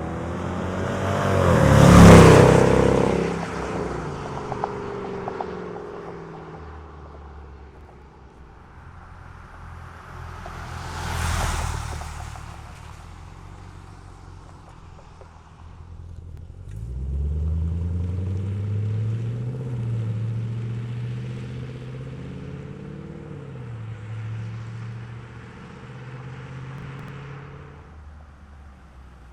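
Jeep Grand Cherokee 5.7-litre V8 through an MRT King of the Hill stainless cat-back exhaust, passing by loudly about two seconds in with its pitch falling away, and again more briefly around eleven seconds. From about seventeen seconds the V8 accelerates, its pitch rising and then holding before it fades near the end.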